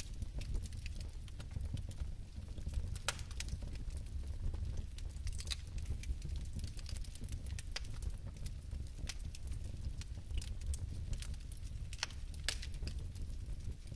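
Bioethanol fireplace flames burning with a steady low rumble and irregular sharp crackles and ticks.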